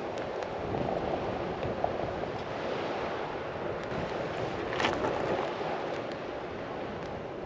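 Steady rush of wind and sea surf at a seaside campsite, with a short click about five seconds in.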